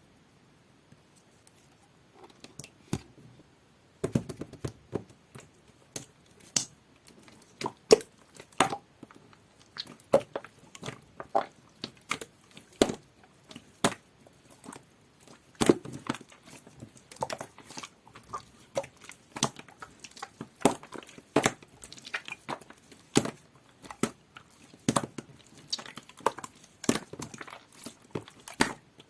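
Two-layer jelly-textured mint slime being pressed and stretched by hand, giving irregular sharp pops and clicks. Faint at first, the pops come thick and fast from about four seconds in.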